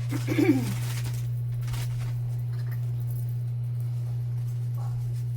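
Steady low electrical hum, with a brief pitched sound about half a second in.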